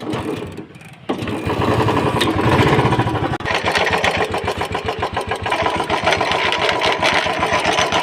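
Royal Enfield Classic 350 single-cylinder engine started on the electric starter about a second in and then running with a rough, fast grinding rattle from the clutch side. It is the 'ghar ghar' noise of a worn-out starter pinion and broken starter bearing.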